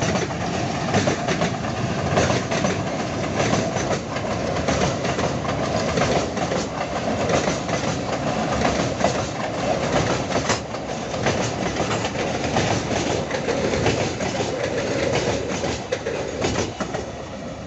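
Long train of loaded freight wagons rolling past, wheels clacking irregularly over the rail joints with a steady rumble of rolling stock; it eases off a little near the end.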